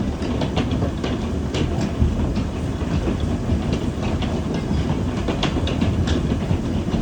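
Hailstorm: a dense, steady rush of heavy precipitation, with many hailstones clicking and clattering at irregular moments as they strike hard surfaces.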